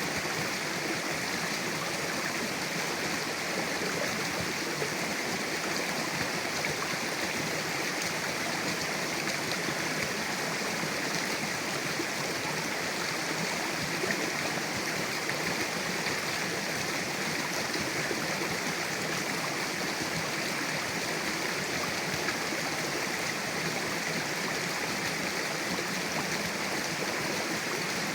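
Mountain river rushing over rocks: a steady, even wash of flowing water.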